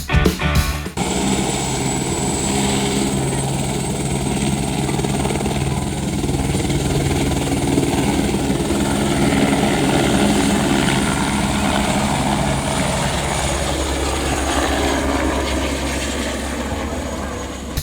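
Helicopter running steadily, its rotor and engine giving a continuous low drone with a faint high whine. It takes over from music about a second in.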